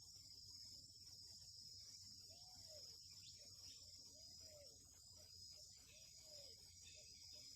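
Faint, steady high-pitched insect trilling, crickets by its sound, with a faint low arched call repeating about every two seconds.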